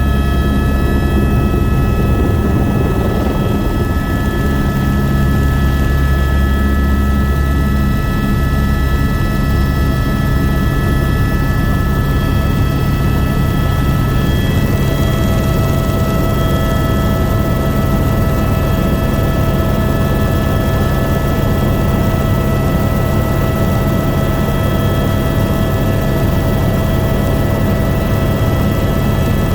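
Helicopter in flight, heard from aboard: a steady drone of rotor and engine with several thin, steady high whining tones over it. The deepest part of the drone eases off about eight seconds in.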